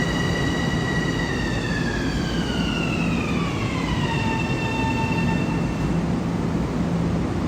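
Long Island Rail Road electric train arriving and slowing: a high whine holds steady, then glides down in pitch over about three seconds and fades away as the train comes to a stop, over a steady rumble.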